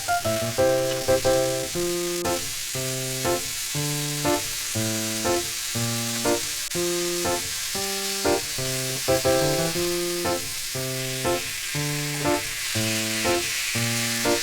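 Food sizzling as it fries in a pan, a steady hiss that grows a little louder near the end, under background music of short, evenly paced notes.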